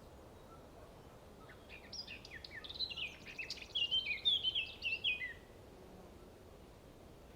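A songbird singing a rapid warbling phrase of short chirps and quick pitch slides, lasting about four seconds and starting a couple of seconds in, over faint steady background noise.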